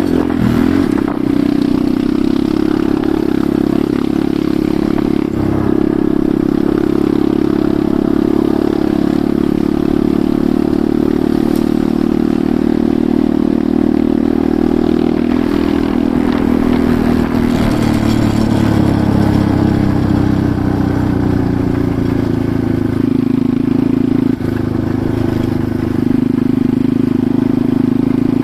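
Enduro motorcycle engine running while riding a rough forest track, its pitch rising and falling with the throttle and dropping about two-thirds of the way through as it slows. Rattling and clatter from the bike over the uneven ground.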